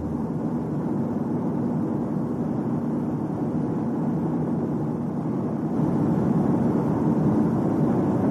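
Steady rumbling vehicle running noise, the drone of a moving car, growing a little louder about six seconds in.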